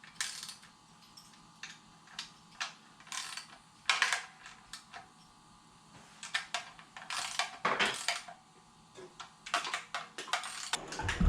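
Irregular metallic clicks and clinks of a wrench being worked on the engine's oil pan bolts, with louder bursts of clatter about four seconds in and again around seven to eight seconds.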